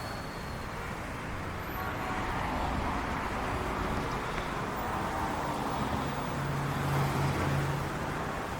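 Street traffic ambience: a steady wash of car and road noise.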